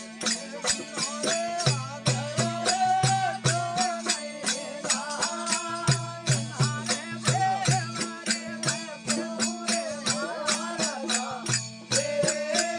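Rajasthani desi bhajan: a voice sings a devotional melody over a steady drone and a quick, even beat of hand percussion.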